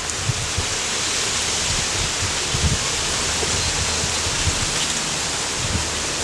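Tractor working the ground, its engine a low steady drone under a constant loud rushing hiss.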